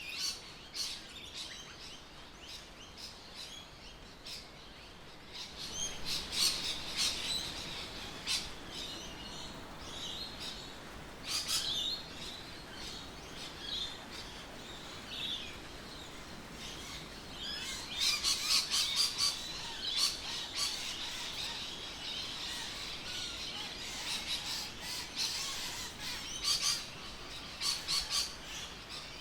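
Birds chirping and calling, several overlapping short chirps and trills over a faint outdoor background, busier in a few stretches.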